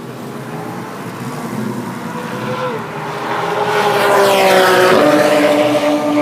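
Race car engine at high revs approaching and passing close by on the track. It grows louder to a peak about four to five seconds in, and its pitch drops sharply as it goes past.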